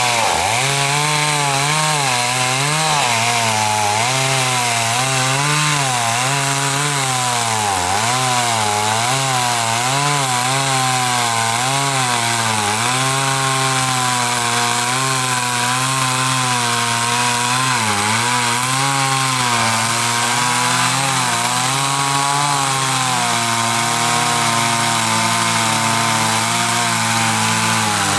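Two-stroke chainsaw running continuously while cutting into the trunk of a large African mahogany (xà cừ) tree, its engine pitch dipping and recovering again and again under load and holding steadier in the last few seconds.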